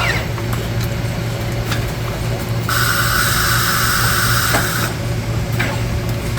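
Filter end-cap welding machine running with a steady low hum. About three seconds in, a high-pitched whine sounds for about two seconds and then cuts off: the weld cycle. A few light clicks are heard around it.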